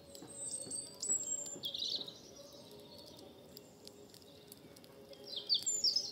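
Songbirds chirping in quick high phrases, once from about half a second to two seconds in and again near the end, over scattered sharp crackles from a wood campfire.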